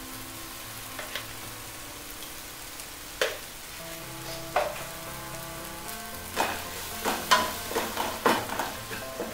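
Onion-tomato masala sizzling in a pot as yogurt is worked in, with a wooden spoon knocking and scraping against the pot. There are a few knocks early on, and the stirring becomes busier from about six seconds in.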